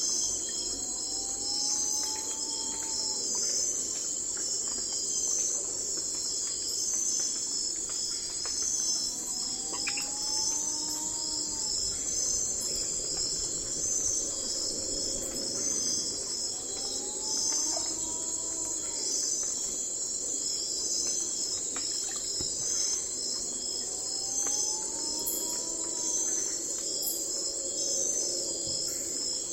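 Night-time forest ambience: a dense, steady chorus of crickets and other insects, high-pitched and pulsing. Over it a bird gives a whistled call that rises in pitch, four times at even spacing.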